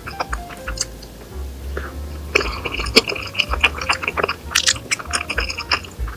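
Background music with close-up eating sounds: chewing and many short clicks of utensils, busiest around the middle.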